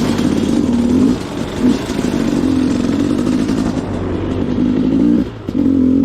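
Two-stroke KTM dirt bike engine running under throttle, easing off briefly about a second in and again near the end.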